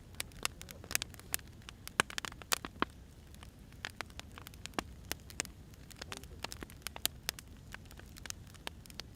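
Firewood burning, crackling with irregular sharp pops and snaps over a low, steady rumble of the fire.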